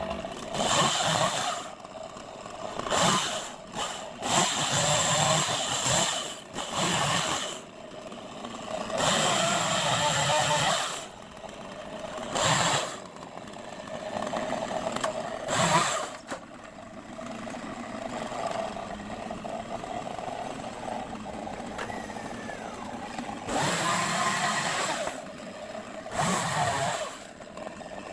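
Chainsaw running between cuts at a steady idle, revved to full throttle again and again for cuts into tree limbs.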